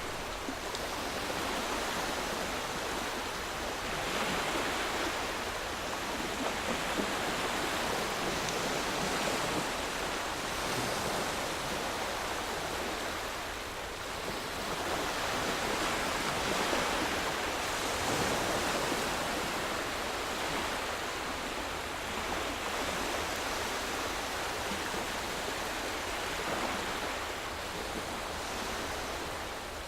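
Calm waves washing onto a sandy shore: a steady hiss that swells and eases every few seconds.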